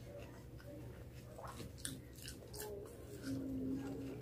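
A person chewing a mouthful of beef steak, onion and rice close to the microphone: faint wet mouth clicks and smacks, with a short low hum a little after three seconds in.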